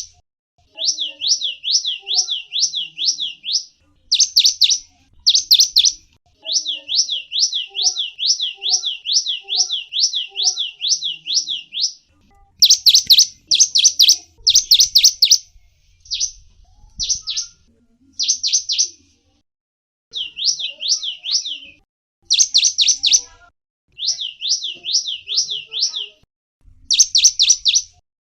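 A small songbird singing rapid series of high, downslurred chirps, about seven notes a second, in bursts of one to five seconds with brief pauses. A few louder clusters of sharper chirps break in between the runs.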